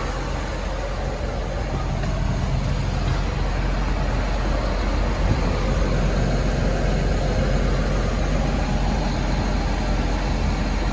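John Deere 850K LT bulldozer's diesel engine running steadily at idle, heard from inside the cab.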